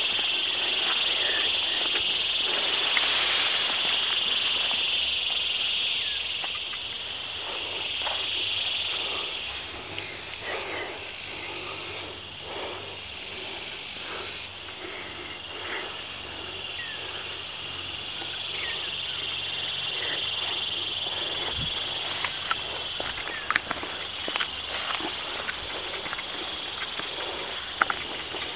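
Insects droning steadily in one high, even pitch, loud for the first several seconds, then fading and swelling again later. Irregular light clicks and rustles of footsteps through the undergrowth run through it.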